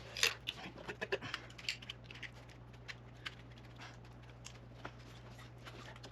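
Scattered light clicks and taps of ignition coils being fitted and seated onto the spark plugs of an Audi 2.0 FSI engine. A sharper click comes just after the start, and the taps thin out after about two seconds, over a faint steady low hum.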